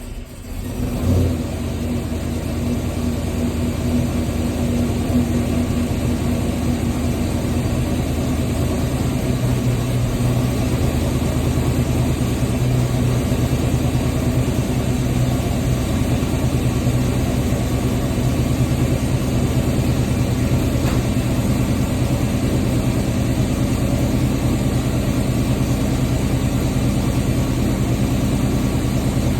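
LS-swapped G-body Cutlass's 6.0-litre V8 warming up after a cold start: a short rise in engine sound about a second in, then a steady idle.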